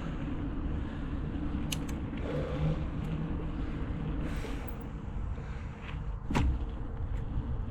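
A motor vehicle driving: a steady engine and road rumble, with a couple of sharp clicks or knocks.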